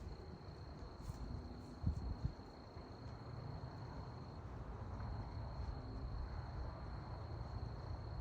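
A cricket's continuous high-pitched trill, held on one steady pitch, over a low rumble with a few soft thumps.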